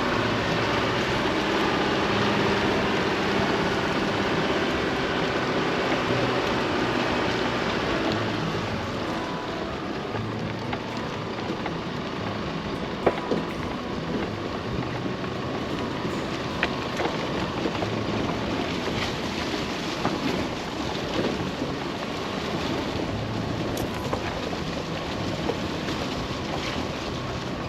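Chevy Colorado ZR2 AEV Bison pickup driving on a gravel trail: steady tyre and engine rumble with a few sharp clicks of stones striking the truck. The rumble eases a little after about eight seconds.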